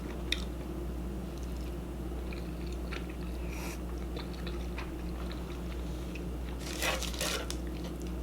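Close-miked chewing and biting of food, a few small crunches and mouth clicks, with a louder burst of crunching about seven seconds in. A steady low hum runs underneath.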